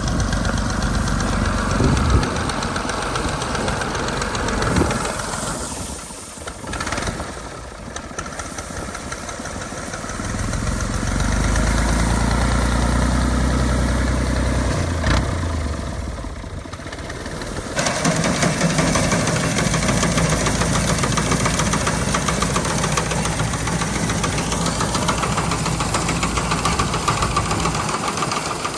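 65 hp Al-Ghazi tractor's diesel engine running with its note changing a few times. It drops away briefly about six seconds in and again around sixteen seconds, then picks up and runs steadily.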